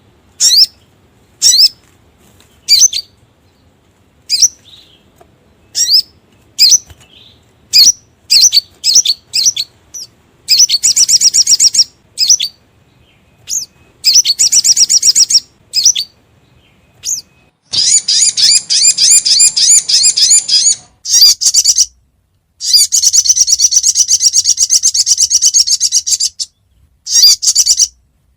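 Sogon (sogok ontong) bird calls played as a lure recording: a series of short, sharp, high chirps, then from about ten seconds in, long rapid high-pitched trills of one to three seconds each, repeated with short gaps.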